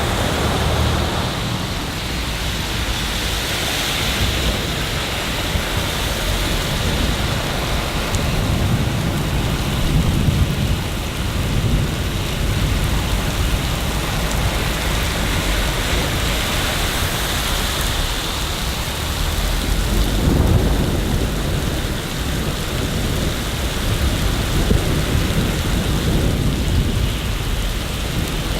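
Steady rain falling, with low rumbles of thunder swelling up about ten seconds in and again about twenty seconds in.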